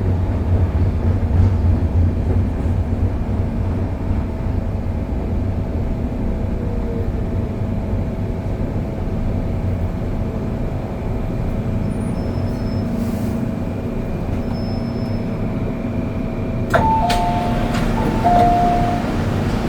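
MTR M-Train carriage running, with a steady rumble and a thin steady whine. About 17 seconds in, a click is followed by a high-low electronic chime that sounds twice.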